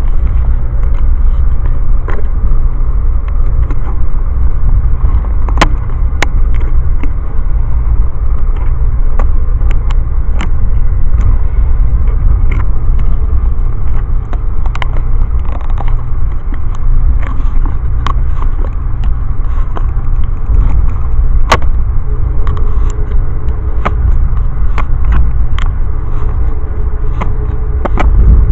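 Steady, loud, low rumble of a moving Amtrak passenger train heard from inside the coach, with scattered sharp clicks and ticks throughout. A faint steady hum joins about two-thirds of the way through.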